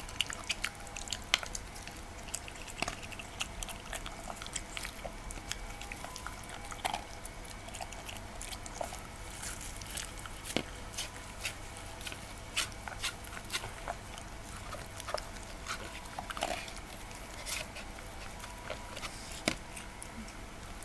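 Shiba Inu eating: irregular wet smacks and clicks of chewing and licking at its food.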